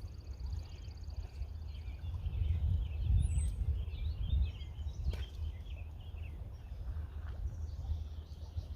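Outdoor ambience: wind rumbling on the microphone, with small birds chirping over it and a fast, evenly pulsed high trill in the first two seconds.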